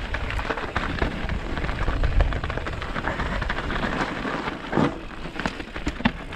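Mountain bike descending a steep, rocky track: tyres crunching over stones with a constant stream of small knocks and rattles from the bike. Wind buffets the microphone, most heavily in the first couple of seconds.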